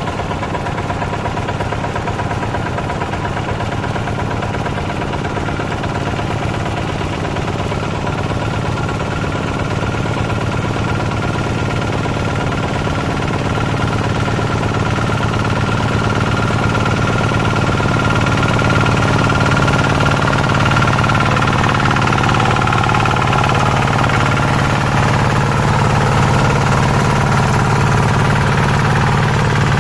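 Hand tractor's engine running steadily, growing a little louder about halfway through.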